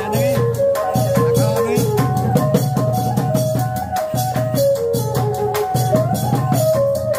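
Khmer chhay-yam music: drums beating a steady rhythm with rattling percussion under a stepping melody line.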